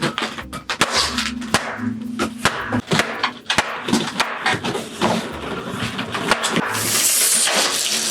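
Inflated rubber balloons being burst, a rapid series of sharp pops and knocks, with a burst of hissing about seven seconds in.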